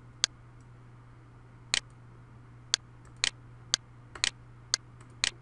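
Computer mouse clicking: about a dozen short sharp clicks roughly half a second apart, several in quick pairs, over a faint steady low hum.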